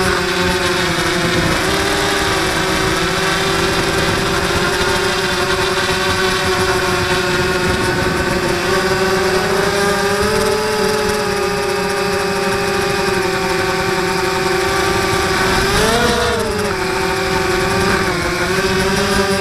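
Blade 200QX quadcopter's electric motors and propellers whining steadily in flight, the pitch wavering with throttle, with a quick rise and fall in pitch about sixteen seconds in.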